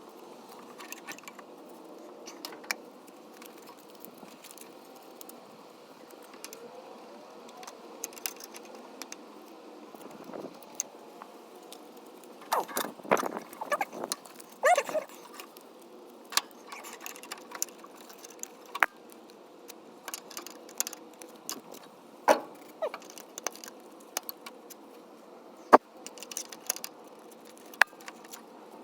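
Scattered light clicks and metallic clinks of hand work with small metal parts and tools, with a busier cluster of clatter about halfway through. No engine is running.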